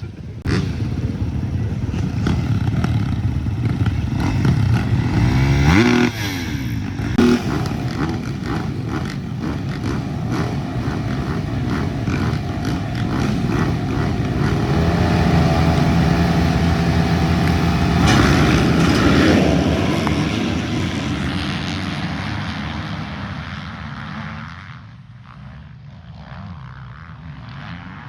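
Motocross dirt bikes running at full throttle in a race. One engine climbs in pitch and then drops sharply with a gear change about six seconds in, and the engine sound fades near the end.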